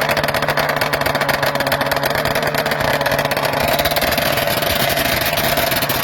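Vintage Morbidelli Grand Prix racing motorcycle's two-stroke engine running steadily, its exhaust a rapid stream of pulses, freshly fired up after earlier failed starts.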